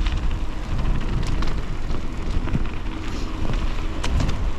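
Wind rushing over the microphone and the rumble of mountain bike tyres on a wet, bumpy dirt trail, with a few sharp knocks and rattles from the bike.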